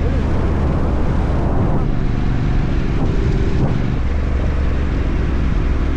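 Motorcycle engine running while riding, with wind noise over the microphone; the engine note changes about two seconds in and again about four seconds in.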